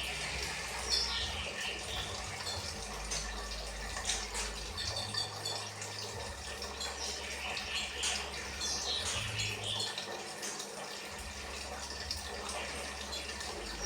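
Kinoi songbird singing: short phrases of high chirps and trills every few seconds, over a low steady hum.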